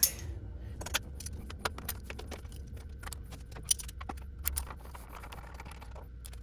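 Irregular light metallic clicks and clinks of hand tools and small bolts as fasteners are taken out of a motorcycle's bodywork bracket.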